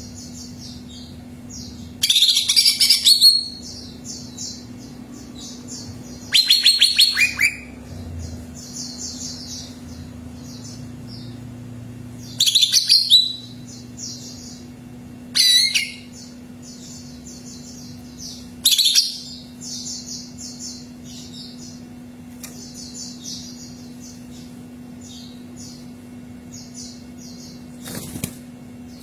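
Cucak ijo (leafbird) singing: loud, rich phrases of about a second come every few seconds, with softer repeated chirps between them. A faint steady hum runs underneath.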